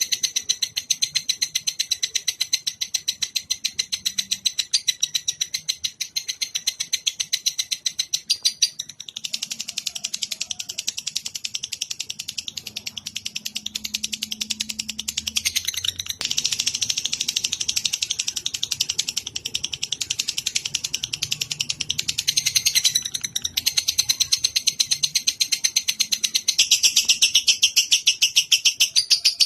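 Songbird chirping in a high, rapid trill of evenly repeated notes, as on a bird-training (masteran) recording. The pattern shifts every several seconds.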